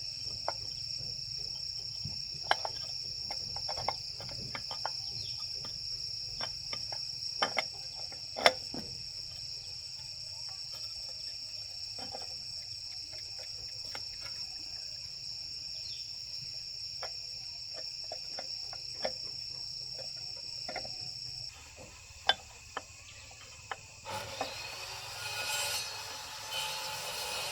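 Steady high-pitched insect chorus, with scattered light knocks and clinks. The insect drone cuts off about three quarters of the way through, and a louder rushing noise takes over near the end.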